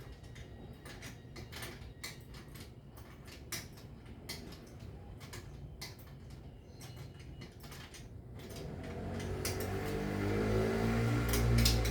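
Scattered light clicks and knocks, then from about two-thirds in a motor vehicle's engine grows steadily louder as it approaches, loudest near the end.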